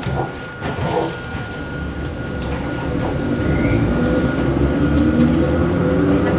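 Nose-suspended (axle-hung) SE121-A traction motors and gearing of a Hakone Tozan Railway Moha 1 type electric car, running over the rails with a low rumble. The train gathers speed, the sound growing louder, and near the end a motor and gear whine rises in pitch.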